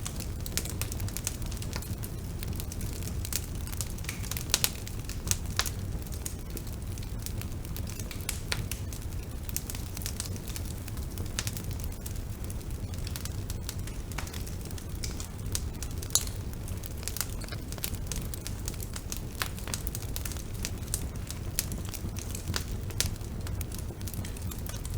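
Bonfire burning with a steady low rumble and frequent irregular crackles and pops from the burning wood.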